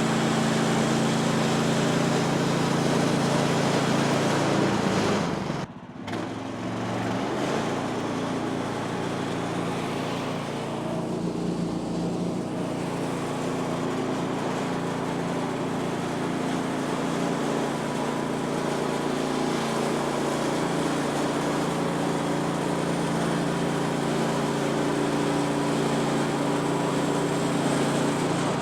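Woodland Mills HM126 portable band sawmill running, its small engine making a steady drone. The sound drops out briefly about six seconds in, then carries on.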